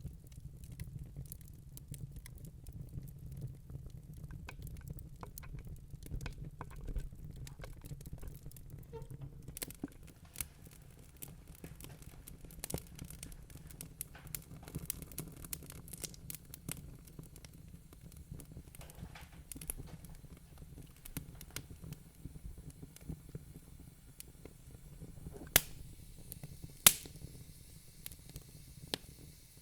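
Wood fire burning in a fireplace: a low steady rumble of flames with irregular crackles from the burning logs, and two loud sharp pops near the end.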